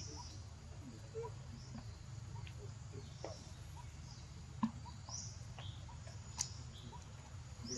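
Faint, scattered short high-pitched chirps and squeaks from animals, with a couple of sharp clicks, over a steady low background rumble.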